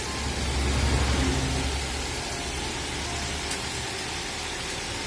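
Car engine idling steadily, its low rumble strongest in the first couple of seconds, under a steady hiss.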